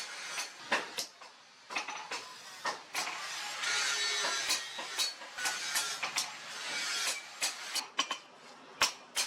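Sharp metallic blows of a hammer on the steel of a car leaf spring being worked into a machete, struck at an irregular pace of about one or two a second, with a stretch of steadier noise about halfway through.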